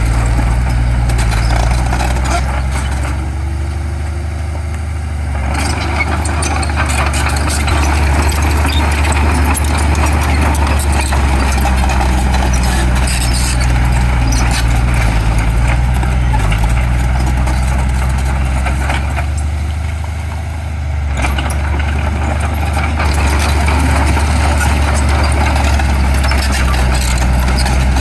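Heavy diesel construction machinery running: a steady low engine note with clatter across the range, easing off briefly twice.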